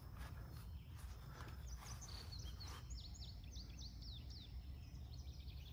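Faint outdoor garden ambience: a low rumble of wind on the microphone, with a bird singing a quick run of about ten high, downward-sweeping notes in the middle. A few soft clicks come early on.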